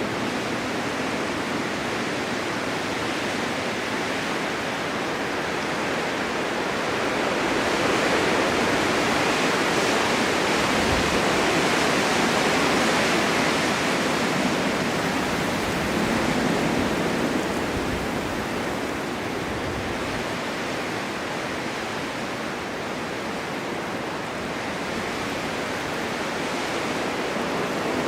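Blizzard wind driving snow: a steady rushing noise that swells in a long gust about a third of the way in, then eases back.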